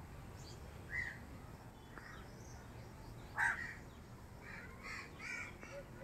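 Birds calling: scattered short calls, the loudest about three and a half seconds in, followed by a quick run of calls around five seconds.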